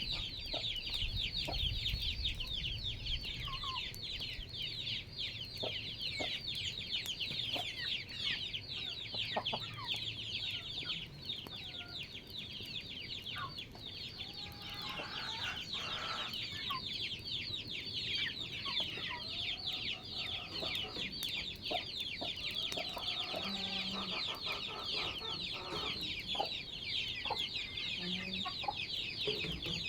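A continuous dense chorus of quick high chirps from many small birds, with chickens clucking now and then, most often in the second half.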